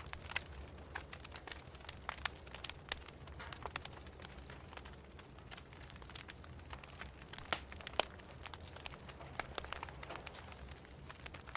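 Wood fire crackling in a fireplace: irregular sharp pops and snaps, two louder pops about seven and a half and eight seconds in, over a steady low rumble.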